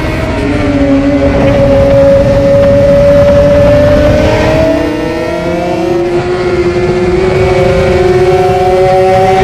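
Yamaha R6 sport bike's inline-four engine pulling hard at high revs, its pitch climbing slowly. About five seconds in, the pitch and loudness dip briefly, then it climbs again.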